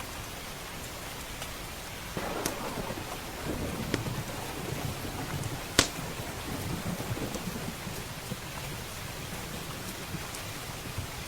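Steady rain with a roll of thunder rumbling in about two seconds in and dying away after several seconds. A few sharp pops of a crackling wood fire sound over it, the loudest about halfway through.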